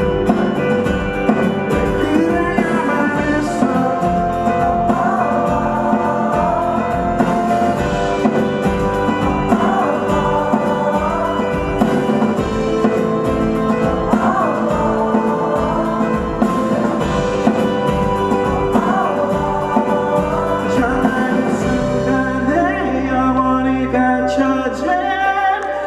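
Live rock band playing: a steady drum beat under electric guitar and other held notes. Near the end the beat drops out and long sustained low notes ring on.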